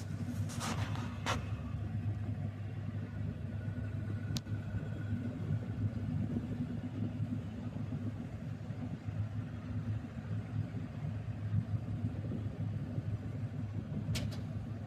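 Steady low rumble of a vehicle driving, with a few sharp clicks in the first second, a single click about four seconds in, and two more near the end.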